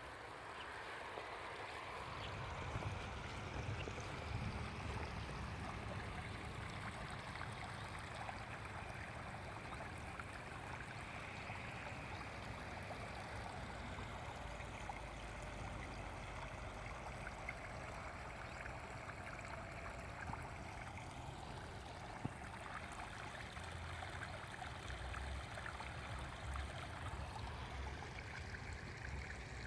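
Water of a stream flowing steadily, with a patchy low rumble underneath.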